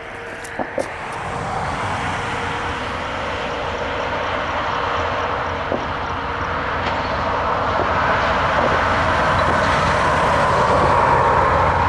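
Train approaching: a rumble of locomotive and wheels that grows steadily louder, with a couple of sharp clicks about half a second in.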